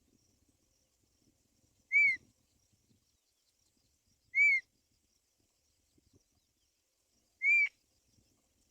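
Black-winged kite giving three short whistled calls, each a quick rise and fall in pitch, two to three seconds apart.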